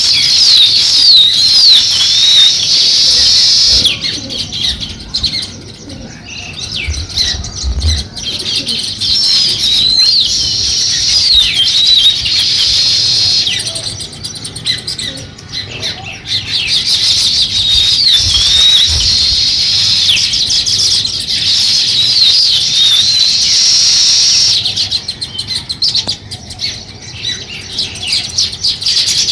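A flock of small birds chirping and chattering in dense, overlapping bouts. The chatter eases briefly about five and fourteen seconds in.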